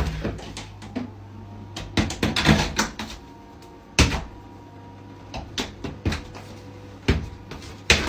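A series of irregular knocks and clatters over a steady low hum.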